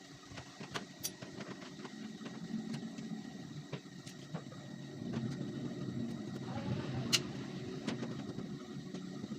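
LG washing machine running: a steady low motor hum that grows a little louder about halfway through, with scattered sharp clicks.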